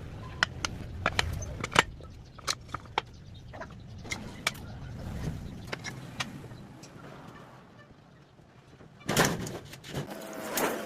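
Irregular sharp clicks and knocks over a low rumble, with a louder burst of noise about nine seconds in.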